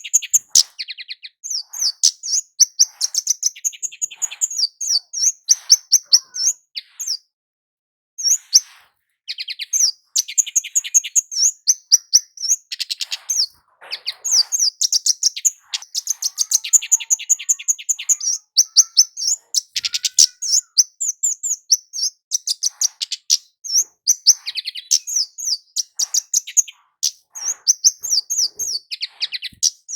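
Kemade jawa, a small flowerpecker, singing in full voice: fast runs of sharp, high-pitched chirps in quick succession, with a short pause about eight seconds in.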